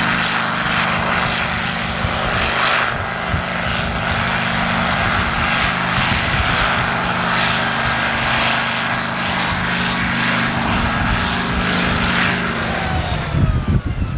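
Pulling tractor's engine running flat out at steady high revs under load, then backing off near the end, its pitch falling away.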